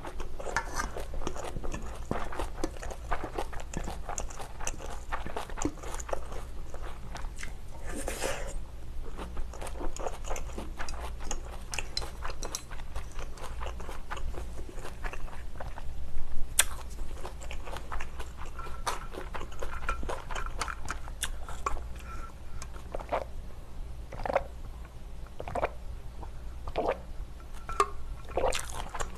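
Chewing and mouth sounds of a person eating spicy stir-fried pork, with many small scattered clicks and a sharper click about halfway through.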